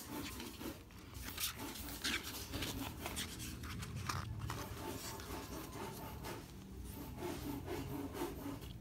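Glossy pages of a photo book being turned by hand: paper rubbing and sliding over paper, with a few sharp flicks as pages flip over, around one and a half, two and four seconds in.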